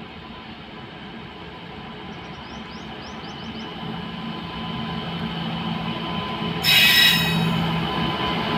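WAG-9-class electric locomotive hauling a loaded freight train as it approaches, its steady hum and rolling noise growing louder. About two thirds of the way through, a brief, loud, shrill high-pitched sound lasts under a second.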